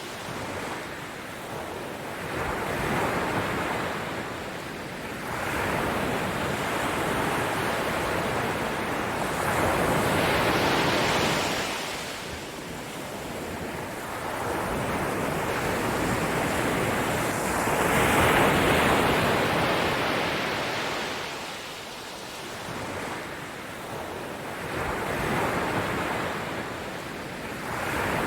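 Ocean surf: a rushing wash of waves that swells and ebbs every few seconds, with the biggest surges about ten seconds in and again around eighteen seconds in.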